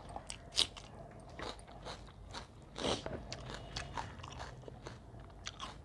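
A person chewing food with a mouthful of crisp crunches and wet mouth clicks. The sharpest crunches come about half a second in and again just before three seconds in.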